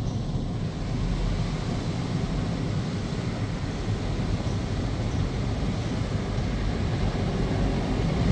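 Steady rushing of a WashTec SoftLine 2 tunnel car wash at work on the car, heard from inside the cabin, over a low rumble.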